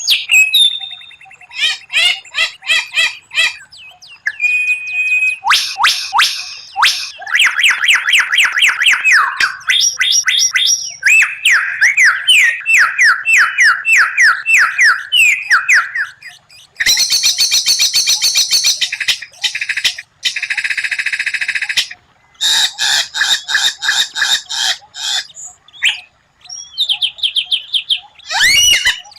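White-rumped shama (murai batu) song: a long run of loud, varied phrases of rapid repeated whistled notes, fast sweeping trills and sharp rattling bursts, the quick-fire 'tembakan' style, with brief pauses between phrases.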